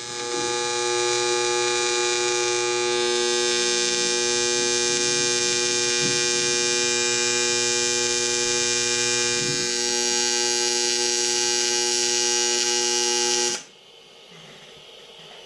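AC TIG welding arc from a Fronius welder at about 150 amps, a steady, loud electric buzz with a 120 Hz pulse. It holds through one long weld pass and cuts off abruptly when the arc is broken near the end.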